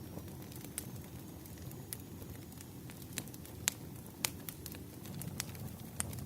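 Campfire crackling: a steady low rumble of burning wood with irregular sharp pops and snaps, a few louder ones in the middle and near the end.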